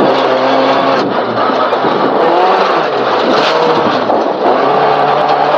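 Honda Civic rally car's engine at full stage pace, heard from inside the cabin: the revs climb and fall with gear changes and lifts for corners, with a clear drop about a second in and another dip near the end.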